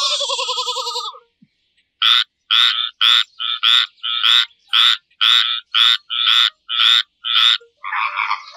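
A sheep's bleat trails off in the first second. After a short pause a frog croaks in an even series of about a dozen short croaks, roughly two a second. Near the end a different animal call begins.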